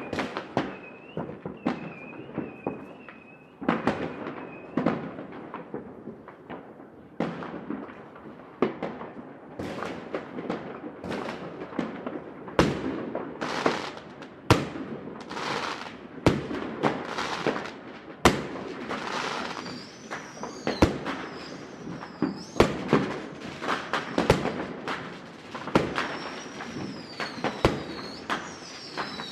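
Fireworks going off over a city: a dense, irregular run of sharp bangs and pops, with thin high whistles wavering and falling at times.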